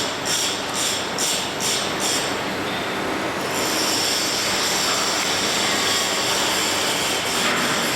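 uPVC window welding machine running: a steady mechanical noise with a strong high hiss. It pulses about three times a second for the first couple of seconds, then settles into a continuous sound.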